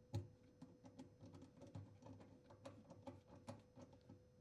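Faint, irregular clicks and taps of a dishwasher drain hose and its fittings being handled and connected to a sink drain, with a louder knock just after the start, over a faint steady hum.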